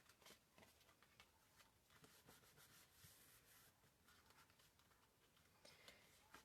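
Near silence, with faint scattered rustles and light taps of paper and cardstock being handled on a table.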